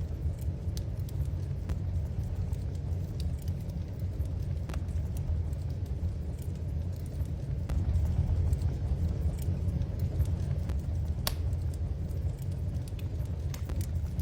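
Wood fire burning in a fireplace: a steady low rumble with scattered sharp crackles and pops, one louder pop about eleven seconds in.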